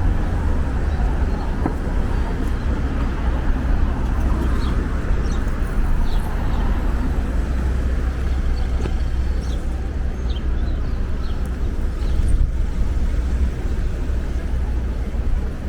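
Busy city street ambience: a steady low rumble of traffic with voices of passers-by mixed in.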